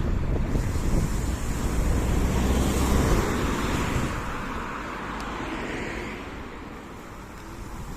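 Wind buffeting the microphone with road rumble from an electric scooter riding at speed. The rumble eases about halfway through and picks up again near the end.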